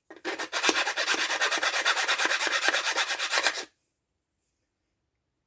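Hand file rasping in quick back-and-forth strokes on the steel edge of a chainsaw bar, filing off burrs. The strokes stop about two-thirds of the way through.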